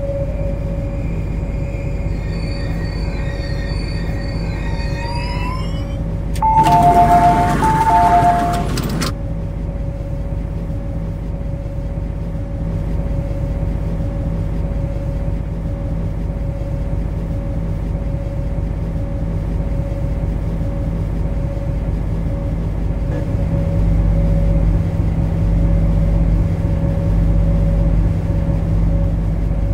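MTR Kwun Tong line C-Train running, with a steady whine from its drive equipment and a whine that rises over the first few seconds as it picks up speed. About seven seconds in, a loud two-second burst with an alternating two-tone beep. Near the end a deeper rumble grows.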